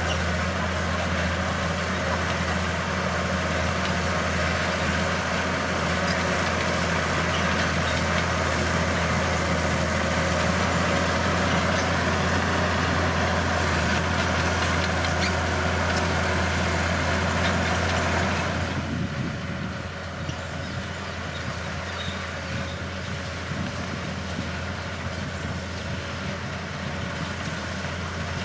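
Bulldozer's diesel engine running with a steady low drone and a rushing mechanical noise over it. About 19 s in, the sound drops in level and turns duller, then runs on steadily.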